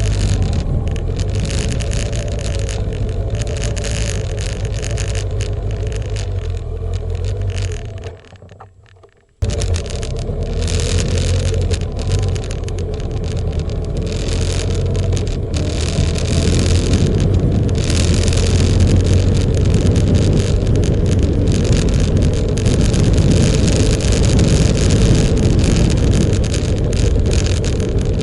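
Motorcycle running at road speed, with a steady low engine hum under a loud rush of wind and road noise. The sound drops out almost completely for about a second, about a third of the way in, then comes back.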